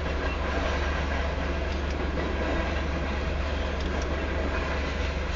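Union Pacific grain train's hopper cars rolling past: a steady rumble and rattle of steel wheels on the rail, with faint scattered clicks.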